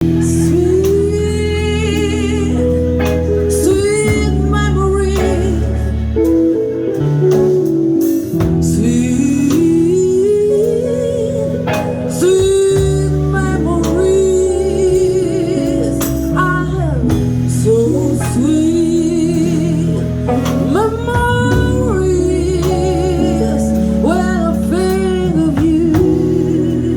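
A live jazz band playing: a melody line with vibrato over bass guitar, keyboard and drums, with guitar.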